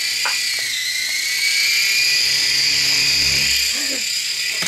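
Toy RC helicopter (Air Hogs Sharpshooter) running with its small electric rotor motors spinning: a steady high-pitched whine with a low rotor buzz underneath. The pitch dips slightly about a second in, then climbs back and holds.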